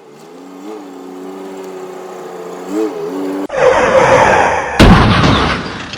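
Opening sound effects: a steady humming tone with small pitch wobbles, then a loud noisy rush about three and a half seconds in, a sharp slam about a second later, and a fade out.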